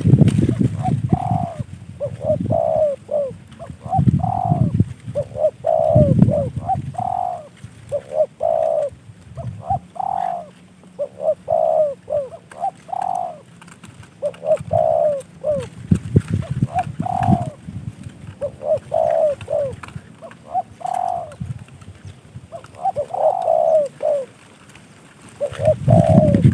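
Spotted dove (tekukur) cooing over and over, in short repeated phrases of mellow notes. Deeper rumbling noise comes and goes underneath at times.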